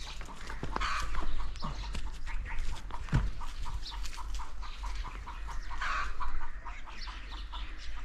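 Birds calling in a rapid run of short, repeated notes, about five a second, with a single low thump about three seconds in.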